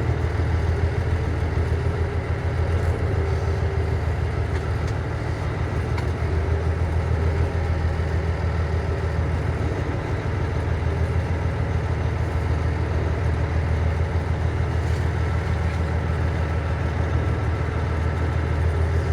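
Cummins ISM inline-six diesel engine of a 1999 International 9100i semi tractor running steadily at low revs as the truck rolls slowly. A deep, even rumble with no revving.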